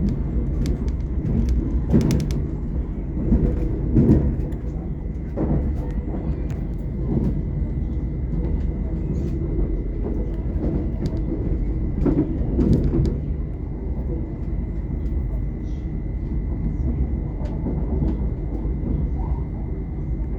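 Inside a GWR Class 800 IET train on the move: a steady low rumble of the running train, with a thin steady high tone and scattered short knocks and clicks, the loudest about two, four and twelve seconds in.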